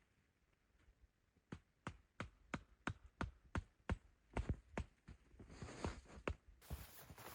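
A quick run of sharp taps or knocks, about three a second, followed near the end by a burst of rustling noise.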